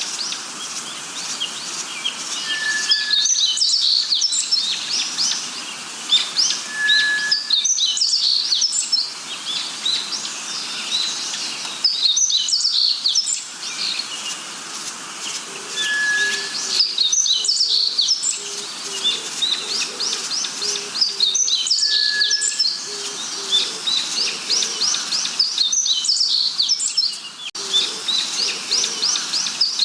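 Songbirds singing: phrases of rapid high chirps every few seconds. A short clear whistle sounds four times, and a series of low, evenly spaced notes comes in about halfway through. The song cuts out abruptly several times.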